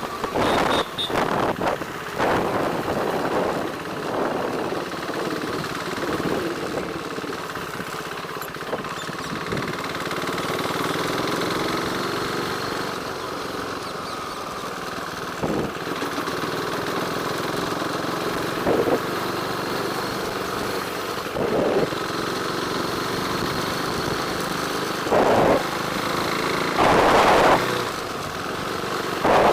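Motorcycle running steadily along a road, engine hum under road and traffic noise, with several short louder rushes of noise in the second half.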